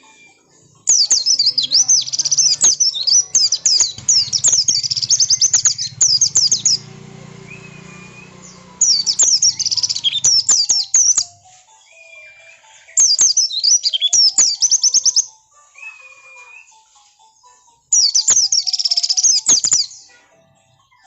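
White-eye (pleci) singing in four bouts of rapid, very high-pitched chirping, each a few seconds long with short pauses between. It is an insistent, aggressive pleci song of the kind used to provoke other white-eyes into answering.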